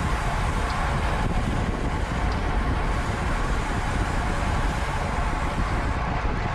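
Steady rush of wind and road noise while riding a road bike at race speed, strongest in the deep low end.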